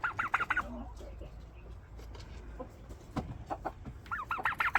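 A turkey calling in quick runs of short, arched notes: one run at the start and another near the end, with a few soft ticks between.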